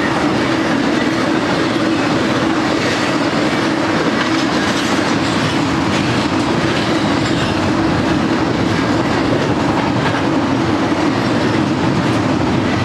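Double-stack intermodal freight train's container well cars rolling past: the steady, loud noise of steel wheels running on the rails.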